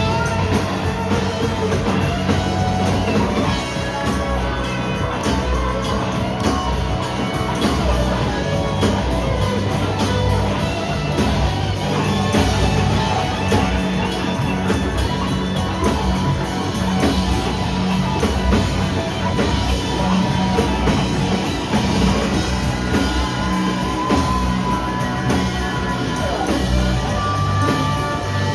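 Live rock band playing loud, continuous rock music with a steady drum beat.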